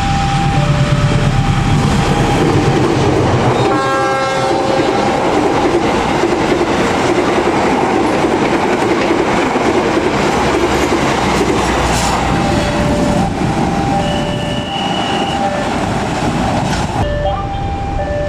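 A train passing at speed over a level crossing, wheels clacking on the rail joints, while the crossing alarm keeps up its alternating two-tone warning. The train sounds a short horn blast about four seconds in, and the rush of the train drops away near the end, leaving the alarm.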